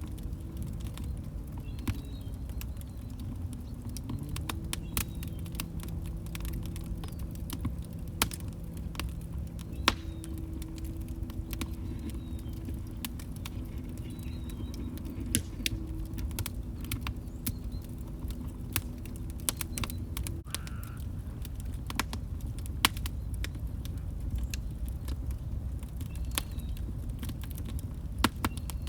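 Log fire burning in a fireplace: a steady low rumble of the flames with irregular sharp crackles and pops from the wood. Faint low steady tones run under it and stop about two-thirds of the way through.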